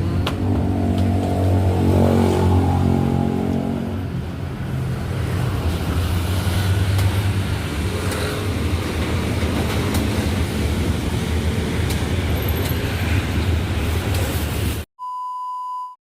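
Motor vehicle engine and road traffic noise, with an engine hum that is strongest in the first few seconds. About a second before the end it cuts abruptly to a steady, pure electronic beep tone.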